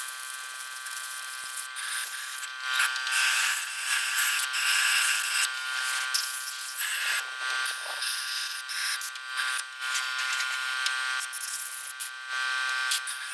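Small electric motor buzzing steadily, with an uneven scrubbing, rubbing noise rising and falling over it as a vacuum cleaner part is cleaned.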